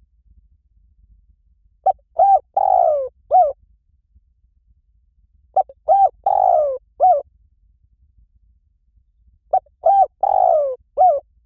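Spotted dove cooing, three phrases about four seconds apart. Each phrase has a couple of short coos, a longer falling coo and a short hooked coo at the end.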